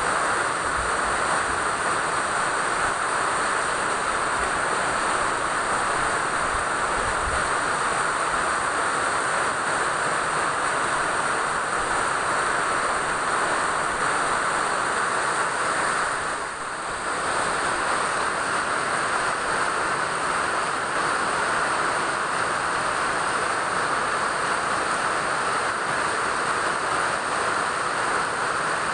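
Steady rain falling, a continuous even hiss. It dips briefly a little past halfway, then carries on.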